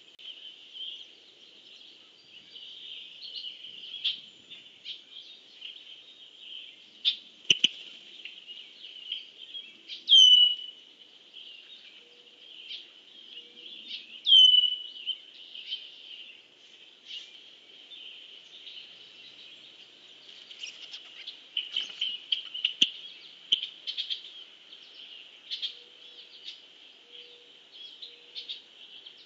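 Wild birds calling: a steady, high-pitched background of chirps with short calls scattered over it, and two loud calls, each sliding down in pitch, about ten and fourteen seconds in.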